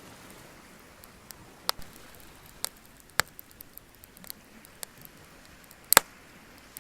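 Beach bonfire crackling: irregular sharp pops and snaps over a soft steady hiss, with the loudest pop about six seconds in.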